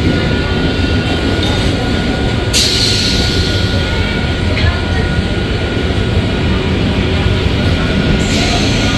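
MEMU electric passenger train rolling along the platform, a steady rumble of its coaches and wheels on the track. A burst of hiss sounds about two and a half seconds in and again near the end.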